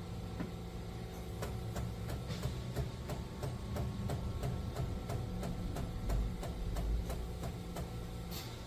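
Philips Series 2300 espresso machine running its pump to steam and froth the milk: a steady mechanical hum with rapid, irregular clicking.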